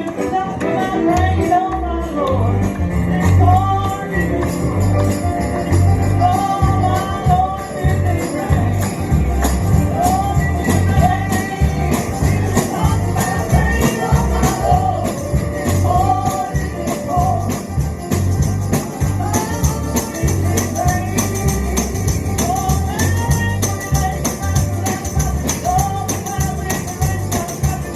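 Live gospel music: a tambourine shaken steadily on the beat over a pulsing bass and a repeating melody line.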